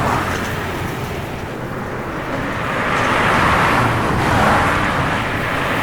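Rushing roar of wind and highway road noise, swelling about three seconds in and easing near the end, with a faint low engine hum underneath.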